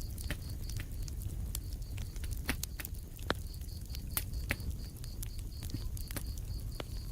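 Wood fire crackling in a fireplace: irregular sharp pops and snaps over a steady low rumble of the flames. A faint high-pitched chirping pulse repeats about five times a second behind it.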